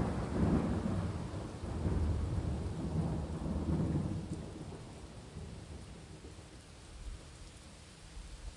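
Rolling thunder rumbling with several swells over a steady rain, the rumble dying away after about four seconds to leave the rain hissing on its own.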